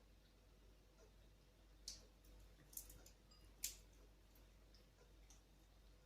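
Near silence broken by three faint, sharp clicks about a second apart around the middle.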